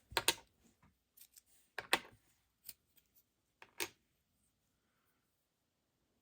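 Shaving heads of a Philips HS550 rotary shaver being lifted out of their carrier and set down: about five light clicks and clatters of small plastic and metal parts over the first four seconds.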